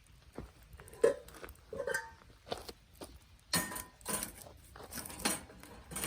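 Irregular light knocks and clinks from camp cookware being handled and set down, about a dozen in all, a few with a short ring.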